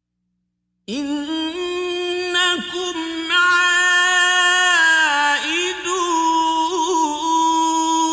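A man's voice reciting the Quran in melodic tajwid style. After about a second of silence it enters and holds one long, ornamented, drawn-out note, with small turns in pitch.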